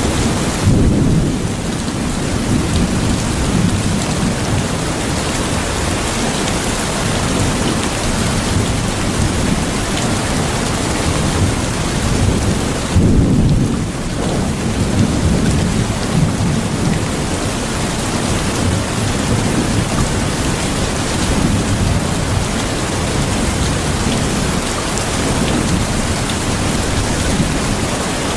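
Steady heavy rain with low rolling thunder underneath, swelling into two louder rumbles, about a second in and about halfway through.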